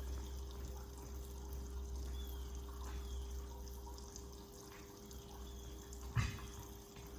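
Low steady hum with a few faint clicks and one sharp knock about six seconds in, as parts are handled in the workshop.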